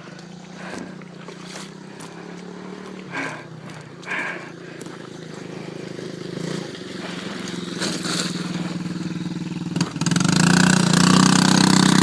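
Dirt bike engine running at low revs, with a few short knocks and rattles, then suddenly much louder near the end as the throttle opens.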